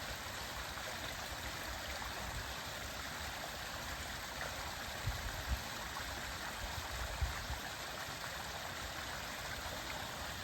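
Mountain stream running over rocks: a steady, even rush of water. A few short low thumps come a little past the middle.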